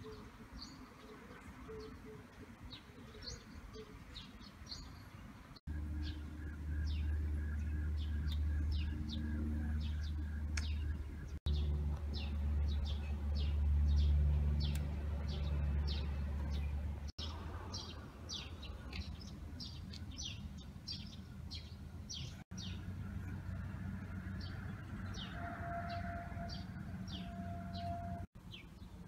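Small birds chirping in quick short notes throughout. A steady low hum runs under them and is loudest through the middle.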